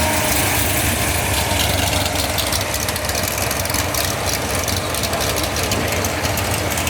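Car engine idling with a steady deep rumble.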